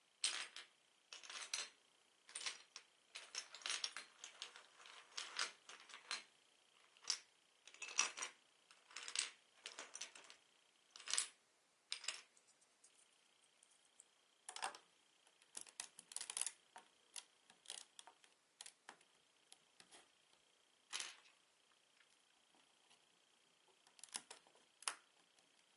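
Small plastic Lego bricks clicking and rattling as they are handled and pressed together. The sharp clicks come irregularly, thick for the first half and sparser after, with short clusters of them.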